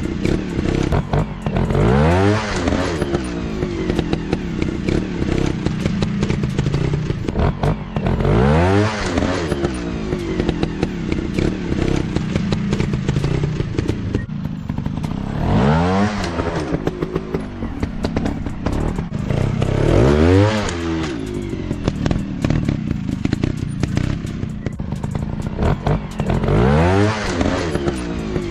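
Off-road trail motorcycle engine revving in repeated bursts, the pitch rising sharply about five times, with short clicks and knocks in between.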